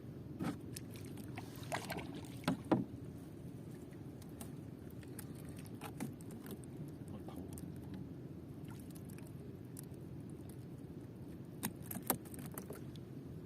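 Steady low rumble of a small boat on the water, with scattered sharp knocks and clatters: a cluster in the first three seconds and another near the end.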